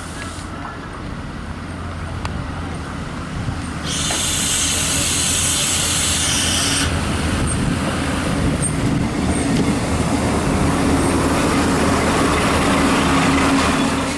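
Irish Rail 29000-class diesel multiple unit arriving at a station platform, its diesel engines running with a steady low drone and wheels on rail growing louder as it draws alongside. A loud high hiss starts about four seconds in and stops about three seconds later.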